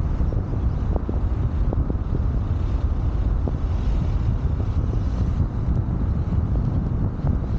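Wind buffeting the microphone of a car-mounted camera while driving, over a steady low road and tyre rumble.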